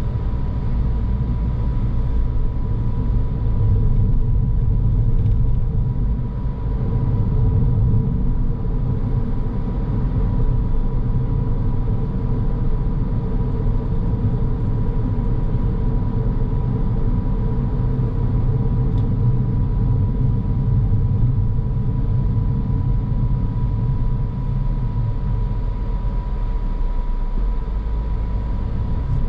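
A car's driving noise: a steady low rumble of road and engine, with a faint steady whine throughout.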